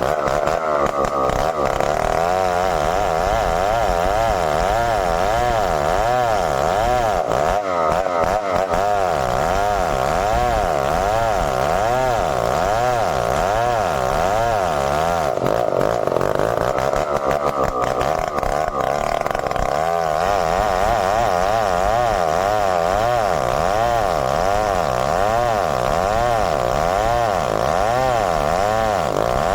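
Stihl 070 two-stroke chainsaw running continuously at high revs, its pitch wavering up and down in a steady rhythm as it works through merbau timber.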